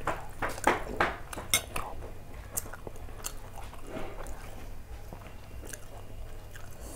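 Close-up chewing and mouth sounds of someone eating parotha with curry. There is a quick run of sharp wet clicks in the first two seconds, then quieter, sparser chewing, over a steady low hum.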